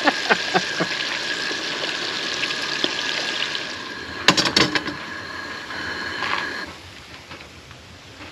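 Fish frying in a pan of hot grease: a steady sizzle with a few sharp clicks of metal near the start and again about four seconds in. The sizzle drops away near the end.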